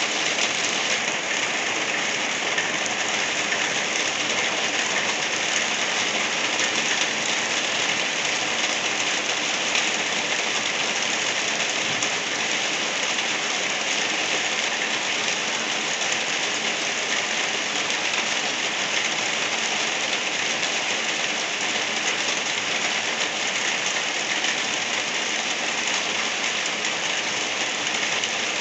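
Light rain falling steadily, an even hiss of many drops without a break.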